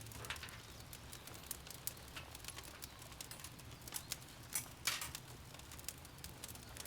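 Wood fire crackling: irregular sharp clicks and pops, a couple of louder ones around the middle, over a faint low hum.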